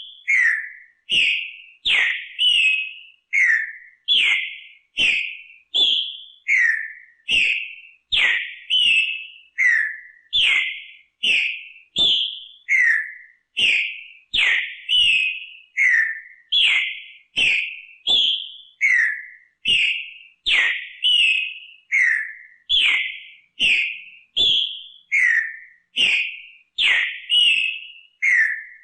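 Green-winged saltator (trinca-ferro) singing the same short whistled phrase over and over, about once a second, each phrase a quick run of clear notes with a pause between repeats.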